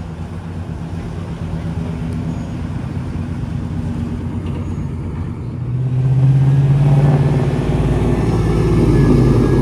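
Classic cars driving past one after another with their engines running; a louder engine comes close about six seconds in, and another near the end.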